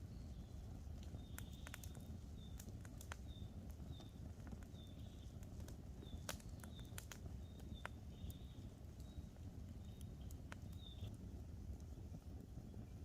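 Wood campfire crackling, with scattered sharp pops over a low steady rumble, while small birds give short high chirps again and again.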